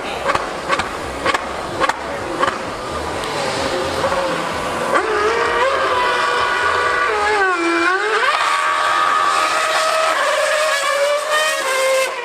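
High-revving racing engine screaming at high revs. Its pitch dips sharply about two-thirds of the way through, then climbs and holds high. Sharp pops come in the first few seconds.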